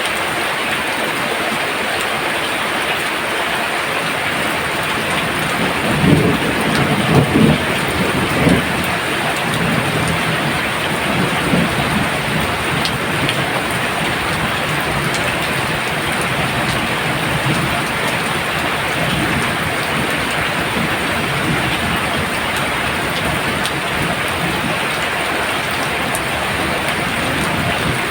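Heavy rain pouring down steadily. A low rumble of thunder rises over it from about six to nine seconds in, with a smaller rumble a few seconds later.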